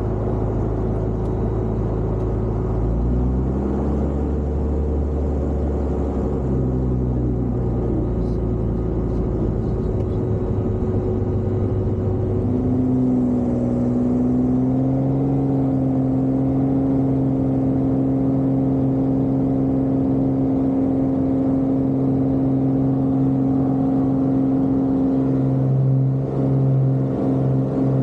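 A vehicle engine running steadily, its pitch shifting a few times in the first half and then holding even.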